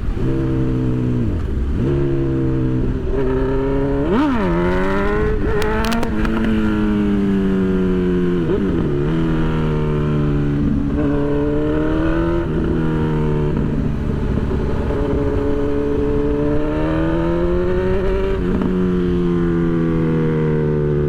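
Honda CB1000 motorcycle's inline-four engine running under way, its pitch climbing through the gears and dropping at each upshift, about eight shifts in all. There is a quick rev up and back down about four seconds in.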